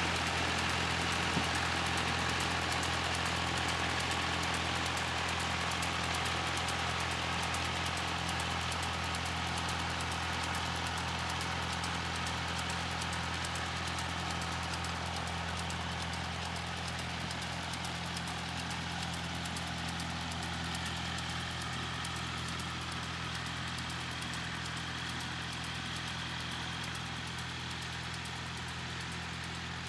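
Massey Ferguson 35 tractor engine running steadily, slowly growing fainter.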